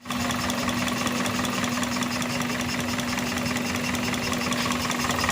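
Toyota car engine idling at a steady speed, with a steady hum and a fast, even ticking over it.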